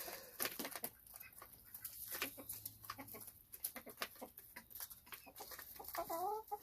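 Chickens clucking quietly among many scattered light taps, with a short wavering call near the end.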